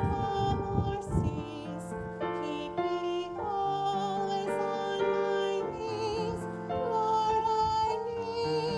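A solo voice singing slow, held notes with vibrato over piano accompaniment. Wind rumbles on the microphone in the first second or so.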